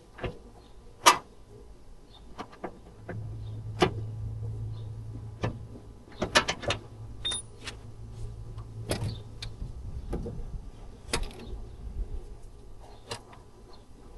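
Hand tools and metal parts clinking and knocking during work on a car's steering rack, a string of sharp separate clanks with the loudest about a second in. A steady low hum sets in about three seconds in and stops near ten seconds in.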